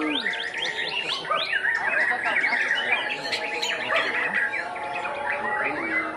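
White-rumped shama (murai batu) singing a dense, rapid run of varied chirps and whistled glides, overlapping with other songbirds.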